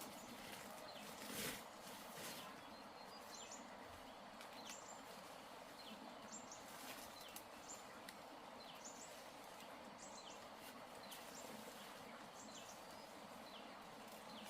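Birds chirping faintly in short, high calls, several a second at irregular spacing, over a steady outdoor background hiss. Two brief knocks come about a second and a half and two seconds in.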